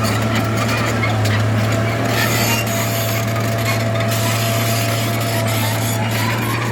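Bulldozer's diesel engine running steadily under load, with a scraping, rasping noise and small clanks as it works dirt, and a thin steady whine through most of it.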